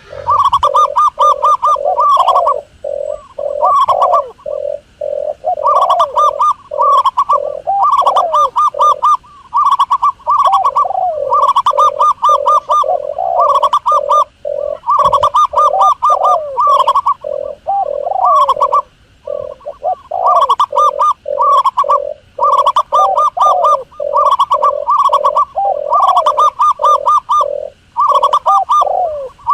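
Doves cooing without pause, a recorded call played as a hunting lure: phrases of rapid, short, repeated notes, each a few seconds long, broken by brief gaps.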